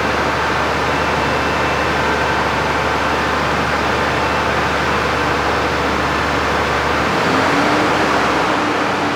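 2016 DAF CF220 box truck's Euro 6 diesel engine running steadily at idle. About seven seconds in, its note shifts and slowly rises a little as the engine speed picks up.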